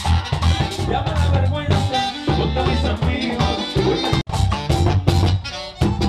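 Live bachata band playing an instrumental passage: guitar, bass and percussion on a steady beat. The sound cuts out for an instant about four seconds in.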